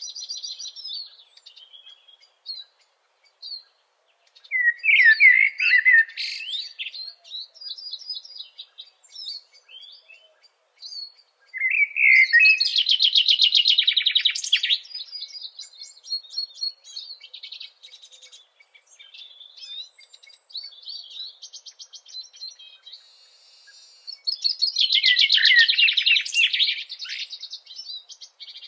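Songbird singing: three loud bursts of song with fast trills, about five, twelve and twenty-five seconds in, with quieter twittering between.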